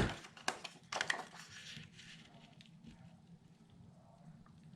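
Cut paper pieces being handled and set down on a table: a sharp tap at the start, then a few lighter taps and paper rustles over the next couple of seconds.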